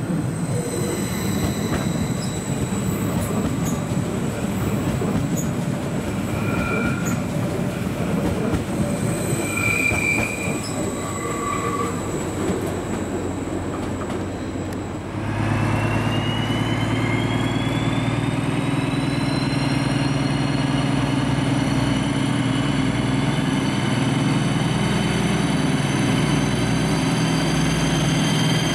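An approaching train rumbling over the station tracks, its wheels squealing briefly a few times on the curves. About halfway through, two DB class 218 diesel-hydraulic locomotives take over, their V12 diesels running under load with a whine that rises in pitch as they pull an Intercity train away.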